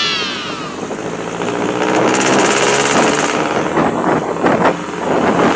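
Street traffic: a heavy vehicle's engine running, with a loud hiss about two seconds in that lasts about a second, followed by irregular clattering.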